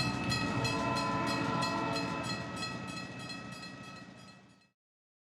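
A passing train with a fast, even clickety-clack of wheels over rail joints and a steady high tone, fading away over about four and a half seconds to silence.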